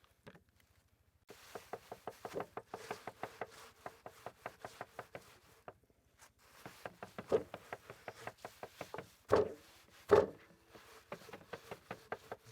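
Eggs being beaten with a wooden stick in a dish: a fast run of light wooden taps, a few each second, with a short pause before halfway and two louder knocks later on.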